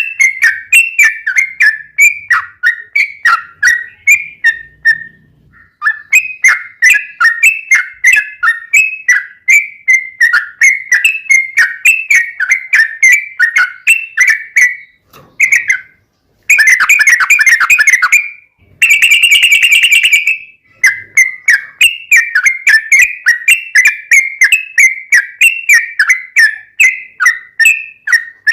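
Yellow-vented bulbul (trucukan) singing a fast, continuous run of short whistled notes, several a second, in its rapid 'ropelan' style, with two dense unbroken trills about two-thirds of the way through. This is the straw-headed-bulbul-style fill that bird keepers use to train captive birds.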